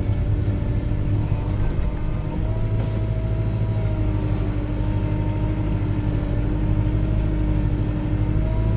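Kubota L3940 compact tractor's diesel engine running steadily, heard from inside the cab, with a steady whine over the low drone that shifts pitch about two and a half and four seconds in.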